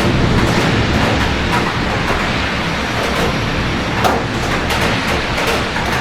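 Steady rain falling, with many small drop taps and a low rumble of city traffic beneath it.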